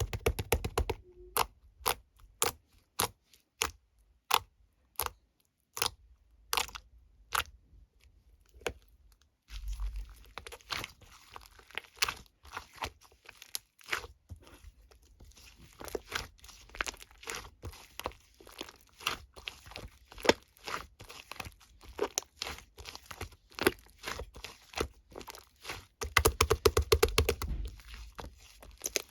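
Slime played with by hand: sharp clicking pops of trapped air, about two a second at first, then from about ten seconds in a denser run of crackling and crunching as it is squeezed and stretched.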